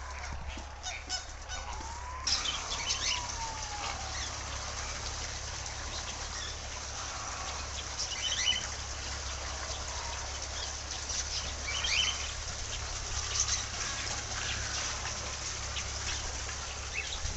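Birds calling: separate short calls every few seconds over a steady high background of bird chatter, with a few gliding calls early on.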